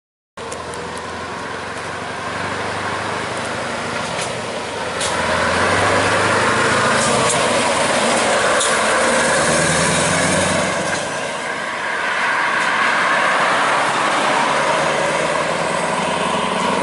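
Scania 144-530 truck's 14-litre V8 diesel running under load. The engine note grows louder over the first several seconds, eases off briefly past the middle, then builds again.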